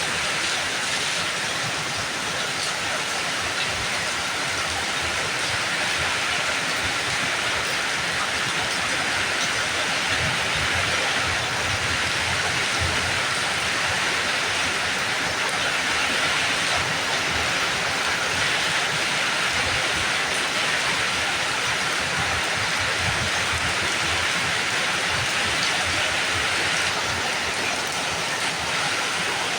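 Steady rain falling, a dense even hiss that keeps the same level throughout.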